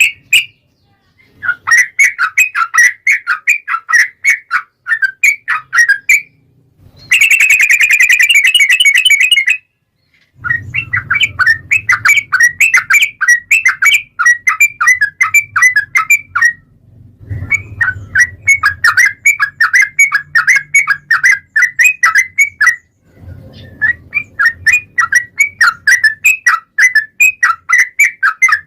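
Yellow-vented bulbul (trucukan) singing loudly in long runs of rapid chirped notes, four extended phrases separated by short pauses, with a dense buzzy trill about seven seconds in.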